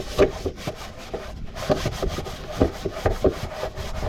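Irregular scraping and knocking of hand work on metal parts of a potato harvester's track assembly, several short strokes a second.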